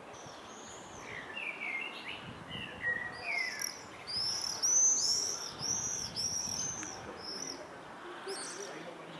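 Songbirds singing outdoors: some lower chirps first, then a run of high, arching notes repeated about twice a second for a few seconds.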